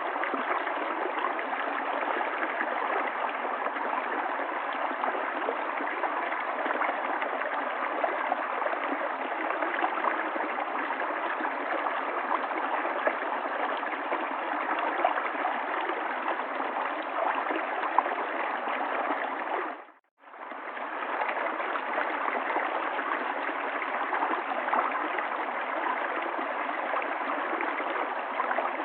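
River water running steadily. About two-thirds of the way through it fades out to silence and back in within about half a second.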